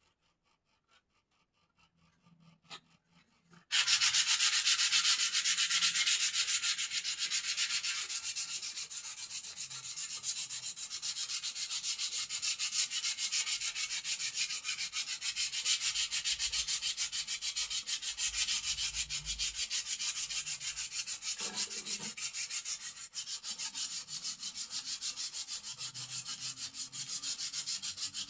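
Sanding a birdcage to smooth it: a few faint ticks, then from about four seconds in a continuous run of fast, even rubbing strokes.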